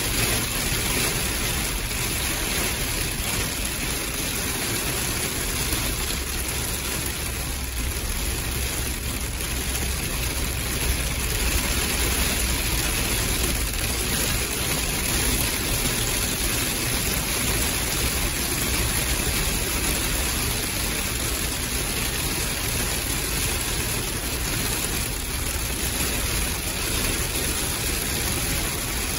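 Heavy monsoon rain hitting a vehicle's windshield and roof in a steady hiss, heard from inside the cab, with the vehicle's engine running low underneath.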